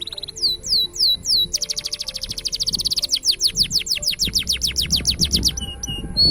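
Green canary singing: a few downward-sweeping whistled notes, then a long, fast trill of sweeping notes that slows near the end, finishing with a couple of short notes.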